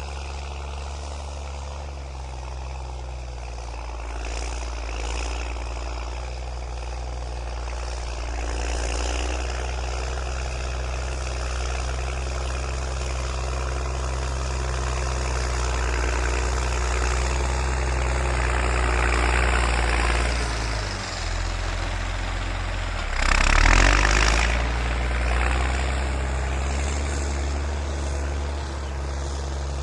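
New Holland TS6.125 tractor's diesel engine running steadily while pushing soil, its pitch sagging briefly under load about two-thirds of the way through. A short, loud rush of noise comes just after.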